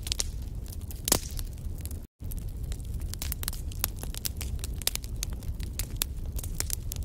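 Wood fire in a fireplace crackling, with frequent short sharp pops over a steady low rumble. One louder pop comes about a second in, and the sound drops out for an instant about two seconds in.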